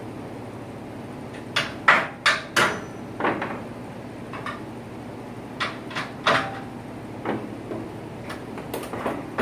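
Irregular sharp clanks and knocks, like tools or metal parts being handled, over a steady low hum.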